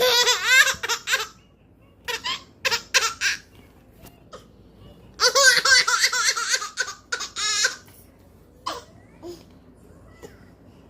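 Baby laughing in high-pitched runs of giggles: three long bouts and a short one near the end, with short pauses between.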